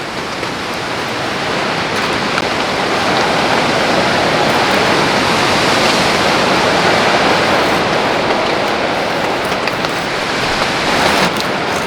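Stormy rain and wind in a mountain forest: a loud, steady rush that swells over a few seconds and eases again. Near the end, a few sharp drops tick on a nearby surface.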